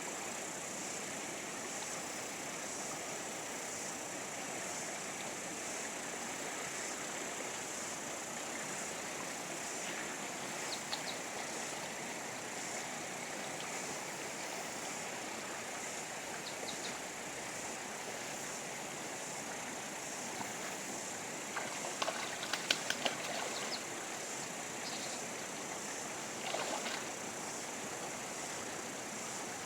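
Rushing river water making a steady, even noise, broken by a few brief clicks and knocks, clustered about two-thirds of the way through and once more near the end.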